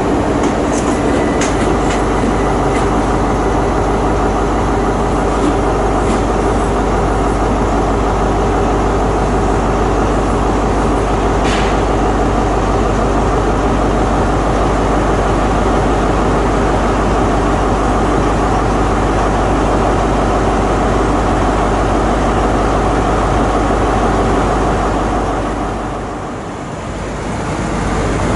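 Train at close range, running with a steady drone of several pitches and a few sharp clicks; the drone eases briefly near the end.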